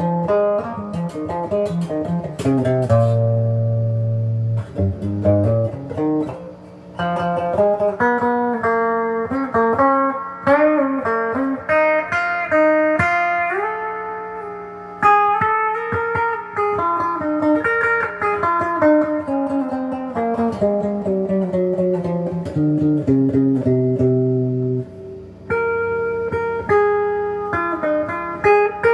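Donner DLP124 electric guitar played through an amplifier's clean channel: strummed chords and single-note melodic lines with string bends and vibrato.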